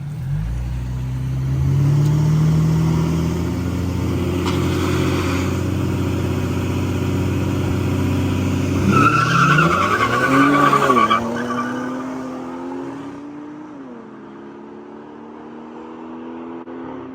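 Hemi V8 muscle cars accelerating hard in a street drag race, engines revving up. About nine seconds in, the tires squeal as the rear wheels spin. Then the engine sound drops in pitch and fades as the cars pull away.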